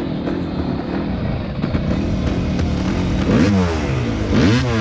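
Motocross motorcycle engines running and revving, with two sharp rev sweeps up and back down about three and a half and four and a half seconds in.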